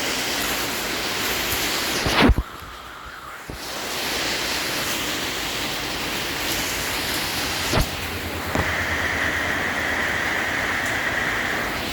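Heavy rain pouring in a steady hiss. A knock about two seconds in is followed by about a second of quieter sound, and a steady high tone joins in over the last three seconds.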